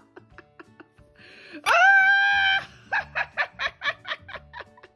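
A child's voice gives a loud, high held squeal lasting about a second, then breaks into a quick run of giggling, about five short bursts a second.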